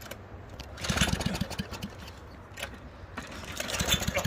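Straight-piped lawn mower engine being cranked and sputtering in two short bursts, about a second in and again near the end, without catching.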